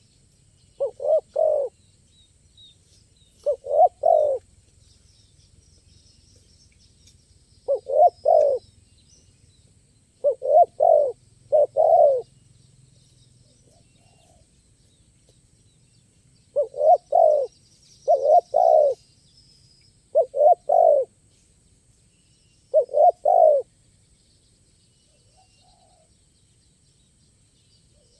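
Spotted dove (tekukur) cooing: short phrases of two or three low coo notes, repeated about nine times at irregular gaps of one to five seconds. Faint high chirps of small birds sound behind.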